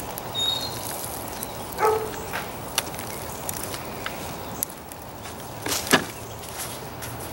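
Hand digging for sweet potatoes in loose soil: irregular rustling and scraping, with scattered knocks and one sharper thud a little before the end.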